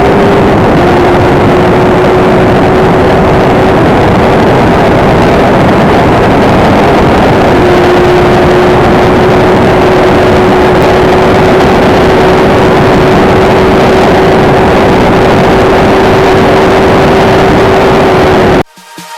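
Benelli TNT 600i's inline-four engine, through an IXIL X55 exhaust, held at steady high revs while riding fast, its note holding a near-constant pitch with a couple of small shifts, under a loud rushing wind noise. It cuts off suddenly near the end.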